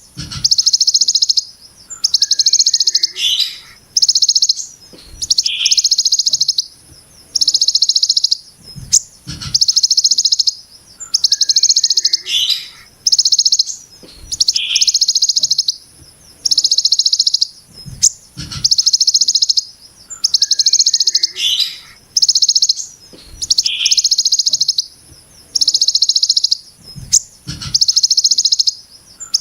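A Kolibri Ninja (sunbird) sings the ciblek gunung's 'brem' phrase over and over. Each phrase is a harsh, tightly packed, high buzzing burst about a second long, repeated roughly every two seconds, with short lower chirps between some of them.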